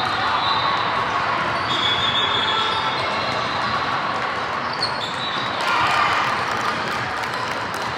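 Basketball game sounds in a gym: a ball bouncing and a few short high squeaks, typical of sneakers on the court, over a steady din of crowd noise.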